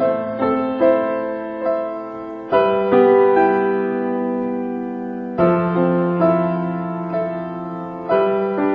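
Slow, soft piano or electric-piano music: sustained chords with a melody of single notes above them, the chord changing about every three seconds.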